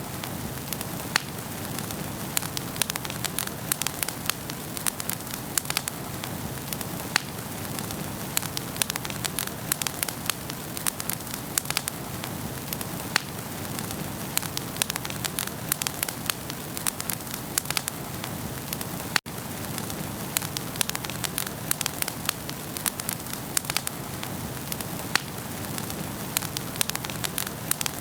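Wood fire burning in a fireplace: a steady hiss of flames with frequent sharp crackles and pops from the burning logs. The sound cuts out for an instant about two-thirds of the way through.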